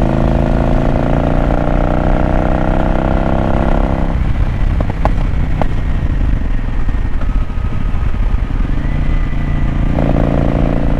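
A 750 cc motorcycle engine pulling under throttle at speed, its pitch slowly rising, then about four seconds in the throttle closes and the engine drops back under a steady rush of wind on the rider's microphone. The engine note comes back on throttle near the end.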